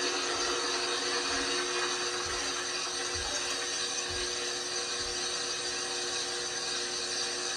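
LG washing machine running with a steady whir and hiss, and a low thud about once a second from the drum that stops about five seconds in.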